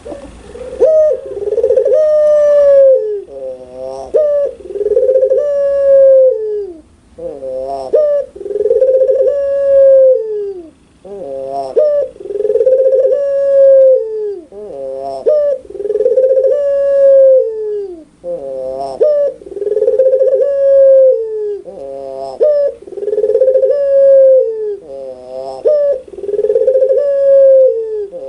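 A puter pelung, an Indonesian domestic turtle dove of the Barbary dove kind, cooing loudly over and over in its laughing call. Each call is a quick rattling trill followed by a long held coo that falls away at the end, repeating about every three and a half seconds.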